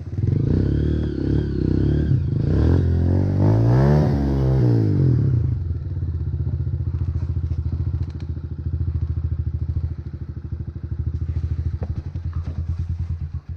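Motocross bike engine running, revved up once and let back down about three to five seconds in, then running steadily at low revs with a pulsing beat.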